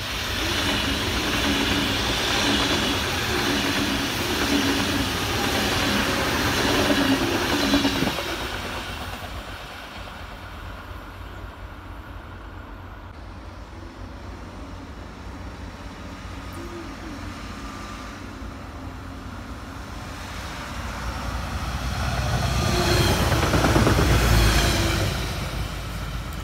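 An ICE high-speed electric train passing close by at speed, a loud rush of air and wheels on rail with a hum, which dies away about eight seconds in. Near the end a red regional diesel multiple unit passes, its rumble swelling and then falling away.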